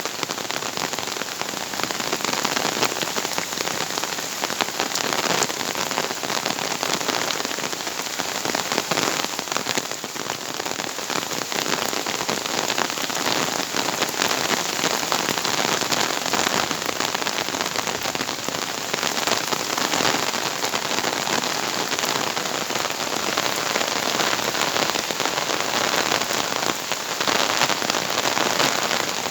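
Heavy rain pouring down steadily, a dense patter of countless drops.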